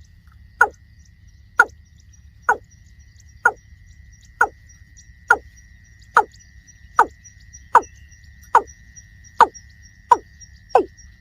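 Watercock calling: a series of short, hollow notes, each falling in pitch, repeated about once a second and gradually quickening. A steady thin high tone runs underneath.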